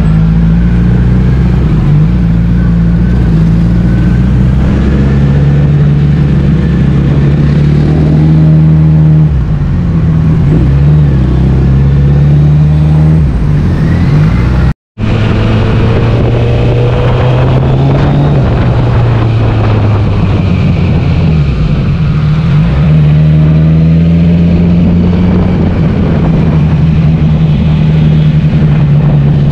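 Kawasaki Z900's inline-four engine running under the rider, its pitch falling and climbing again several times as the throttle and gears change. The sound drops out for a split second about halfway through.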